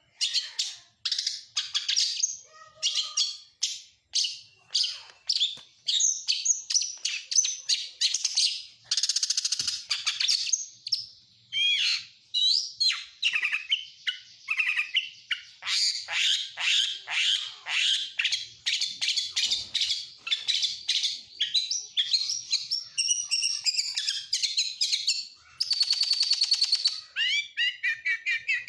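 Oriental magpie-robin (kacer) singing a continuous, varied song of rapid whistled sweeps and trills, with harsh buzzy rattles about nine seconds in and again near the end.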